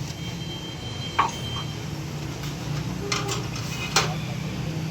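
A few sharp metallic clinks and knocks of hand tools on metal, the loudest near the end, over a steady low hum.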